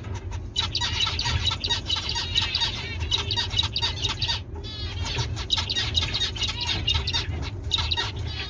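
A group of small cage birds chirping and calling busily, with many short calls overlapping and a couple of brief lulls, over a steady low hum.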